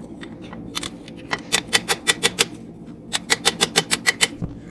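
Hammer striking hot angle iron on an anvil to even out the flattened metal, about fifteen ringing blows in two quick runs of around seven. A forge runs steadily underneath.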